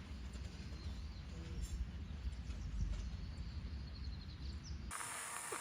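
Wind buffeting the microphone with a low rumble, with a few faint bird chirps. Near the end it cuts off abruptly and gives way to a steady high hiss of insects.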